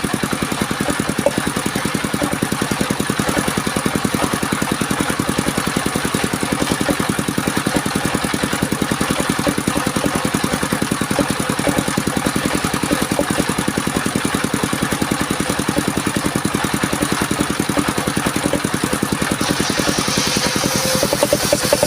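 The engine of a portable circular sawmill running steadily, with a fast, even pulse. A higher hiss joins it about two seconds before the end.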